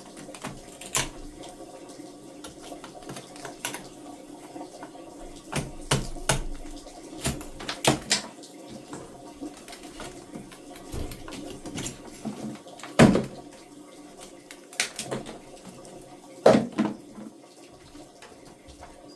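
Scattered knocks and clicks of work at an opened wall, with two sharper knocks about 13 and 16 seconds in, over a steady low background.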